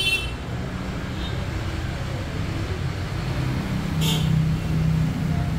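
Small CNC router running during PCB milling: a steady low machine hum whose pitch shifts slightly as it moves, with a brief higher hiss about four seconds in.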